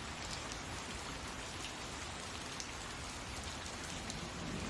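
Steady rain: an even hiss with a few distinct drops now and then.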